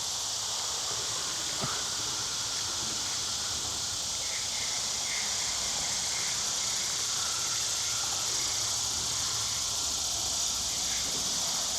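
Steady high-pitched chorus of insects outdoors, with one short click about a second and a half in.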